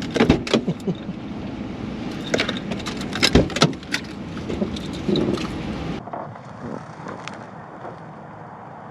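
A quick string of clicks and knocks from things being handled, over a steady low rumble; about six seconds in it cuts abruptly to a quieter background.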